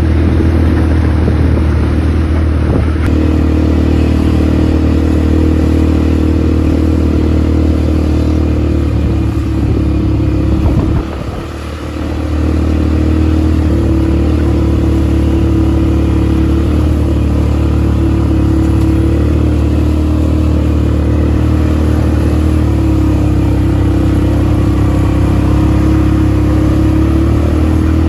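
ATV engine running steadily, dropping off briefly about eleven seconds in before picking up again.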